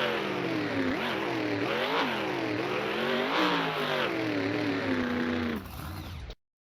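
Monster truck engine revving in repeated sharp blips, about one a second, falling back between them. It drops off near the end and the sound then cuts out abruptly.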